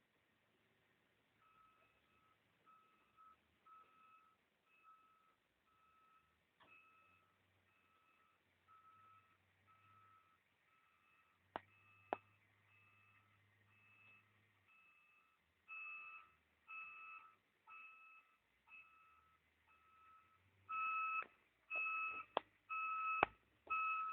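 An electronic beeper sounding a short, steady tone over and over, roughly one to two beeps a second. It starts faint and grows louder in the second half, loudest near the end, with a few sharp clicks in between.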